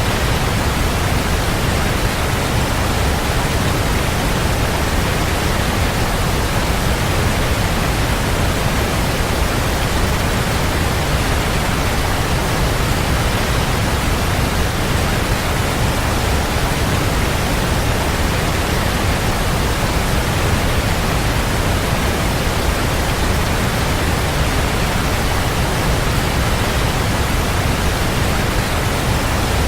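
Waterfall: a steady, unbroken rush of falling water, full in the low end.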